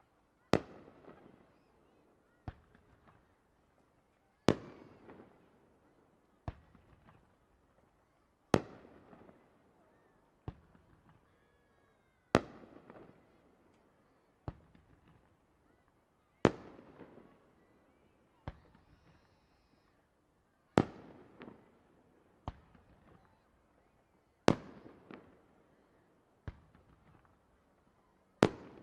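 Aerial firework shells bursting in a steady sequence, a sharp bang about every two seconds, louder and softer bursts alternating, each followed by a short fading crackle and echo.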